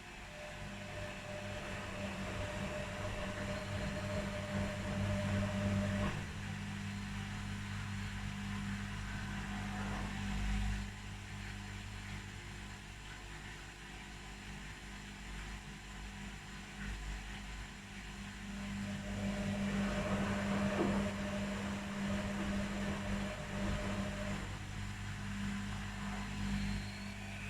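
Two front-loading washing machines, an Electrolux and an Arctic, running their quick wash programmes. There is a steady low hum, and a motor whine that runs for several seconds, stops, and comes back near the end, with a few soft knocks as the drums turn.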